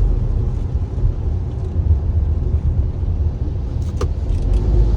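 Steady low rumble of road and engine noise heard inside a Tata Harrier SUV's cabin as it drives along a highway, with a single short click about four seconds in.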